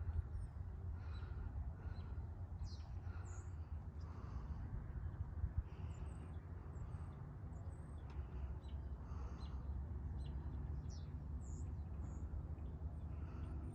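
Outdoor ambience: short, scattered bird chirps over a steady low rumble.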